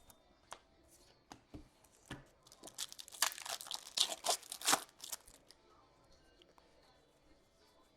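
Foil trading-card pack torn open and its wrapper crinkled: a burst of tearing and crinkling from about two and a half to five seconds in, after a few light clicks.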